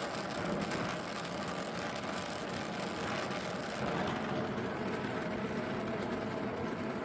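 Gas torch with a brazing tip burning with a steady flame noise as it heats small square bar stock for twisting. The higher part of the hiss eases off about four seconds in.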